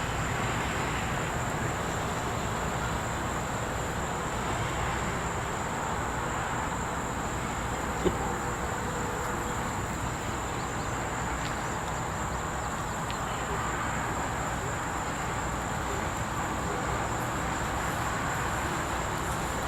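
Steady outdoor background noise: a low rumble under a thin, unbroken high-pitched insect drone. One brief click about eight seconds in.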